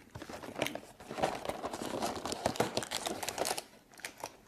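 Plastic snack wrapper crinkling and tearing as it is handled and opened, a dense run of crackles in the middle.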